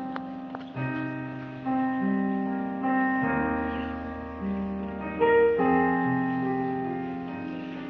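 Keyboard with a piano sound playing a slow sequence of sustained chords, a new chord struck about every second, with a deep bass note held through the middle.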